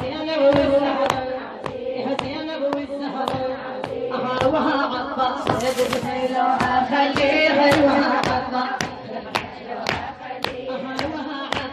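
A mullaya, a female religious chanter, singing a drawn-out chant, with steady rhythmic hand beats keeping time.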